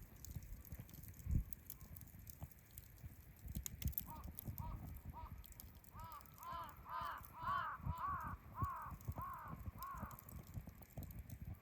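A crow cawing repeatedly, a run of short arched calls about twice a second starting about four seconds in and stopping near the end, over faint crackling ticks from the campfire.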